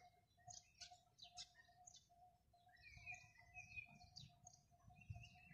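Faint birds chirping, with short high calls scattered throughout and one low note repeating steadily about three times a second.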